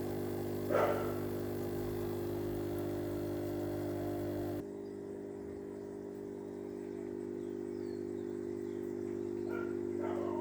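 Steady low electrical hum with several fixed tones, a brief louder sound about a second in, and the background hiss dropping away abruptly about halfway through.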